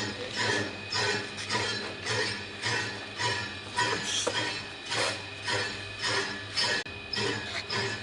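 Clove grinding machine running: a steady motor hum under a rasping, crackling grind that pulses about twice a second.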